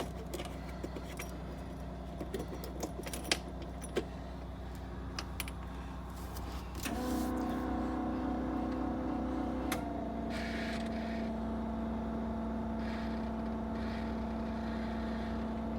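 Keys jangling and clicking in a 2009 Blue Bird Vision school bus's ignition. About 7 seconds in, the ignition is switched on with the engine not yet running, and a steady electric tone starts. About 3 seconds later it shifts to a lower steady hum while the diesel's glow plugs cycle before the start.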